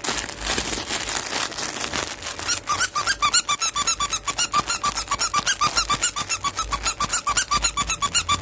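Squeaker in a furry dog toy squeezed over and over, a fast, even run of squeaks about six a second. The squeaks start after a couple of seconds of rustling as the toy is handled.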